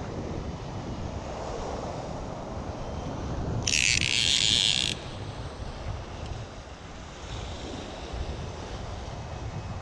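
Wind buffeting the microphone, a steady low rumble. About four seconds in comes a brief, bright hiss lasting about a second, from an unidentified source.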